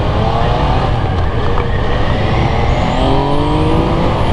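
Yamaha FZ-09's inline three-cylinder engine, on its stock exhaust, accelerating away. The revs climb, drop once about three seconds in at an upshift, then climb again.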